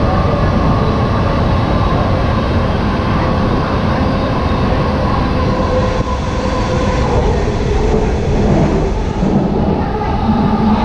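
JFK AirTrain car, a Bombardier ART Mark II driven by linear induction motors, running at speed along its guideway, heard from inside the car: a steady rumble of wheels on rail with a faint motor whine that drops a little in pitch over the second half.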